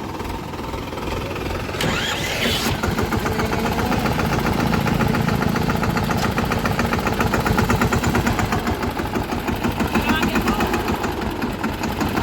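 Diesel engine of a heavy farm or construction machine running with a fast, even knocking beat. It grows louder about two seconds in and stays loud.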